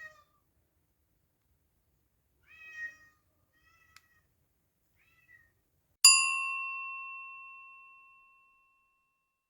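A cat meowing: a brief mew at the start, a clearer one about three seconds in and a couple of faint short ones after. Then a single bright bell-like ding, the loudest sound, rings out and fades away over about two and a half seconds.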